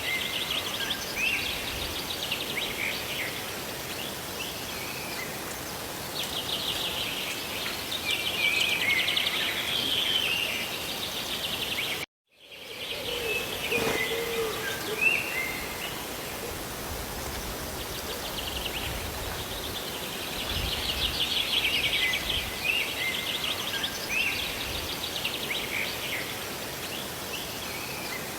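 Steady hiss of falling rain and waterfall water, with small birds chirping and trilling in repeated bouts. About twelve seconds in, the sound cuts out completely for half a second.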